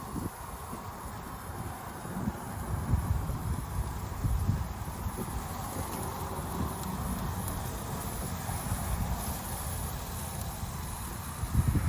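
Wind buffeting the microphone in uneven low gusts, over a steady faint hiss.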